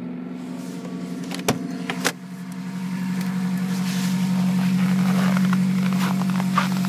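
2003 Ford Focus ZX5's Zetec inline-four idling steadily just after a hard cold start in sub-zero weather. The revs hold even. Two sharp clicks come about one and a half and two seconds in, after which a hiss builds up over the engine.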